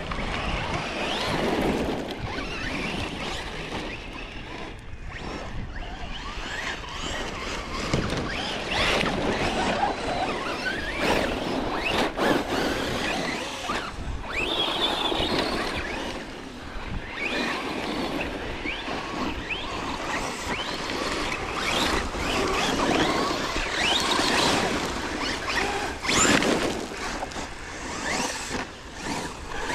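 Electric RC trucks driving over rough dirt and rocks, their motors whining up and down as the throttle is worked, with a steady noise of tyres, gravel and wind.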